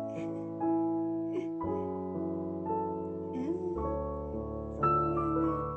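Background piano music: sustained chords that change every second or two, with a slow melody above them.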